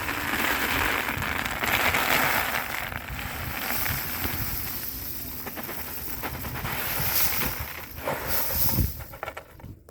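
Loose wooden matches pouring out of matchboxes onto a heap, a dense continuous rattle that stops shortly before the end.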